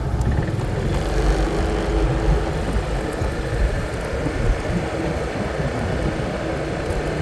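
Motor scooter engine running with a faint steady hum, under a heavy low rumble of wind and road noise on the handlebar-mounted phone's microphone; the level rises a little about a second in.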